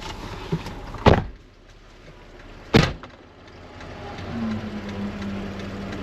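Two car doors slammed shut, one about a second in and another nearly two seconds later, followed by a low steady hum.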